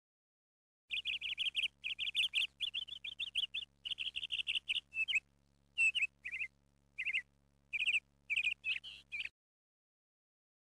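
A small songbird chirping and trilling in quick runs of high notes, in a string of bursts with short gaps. The birdsong starts about a second in and cuts off abruptly over a second before the end.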